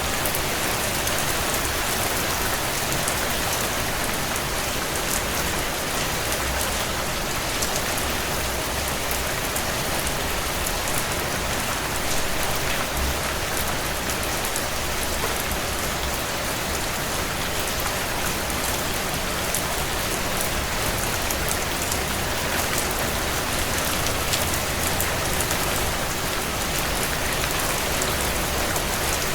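Steady heavy rain hissing evenly, mixed with the crackle of a wood fire: many small, sharp ticks scattered over the rain.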